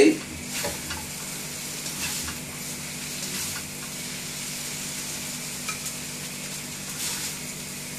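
Stir-fried yellow noodles sizzling steadily in a hot wok while they are lifted out with a spatula, with a few faint light scrapes and a steady low hum underneath.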